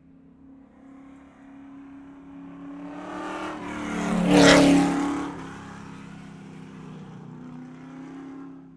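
A car driving past: its engine and road noise grow steadily louder, peak about halfway through, then fade away.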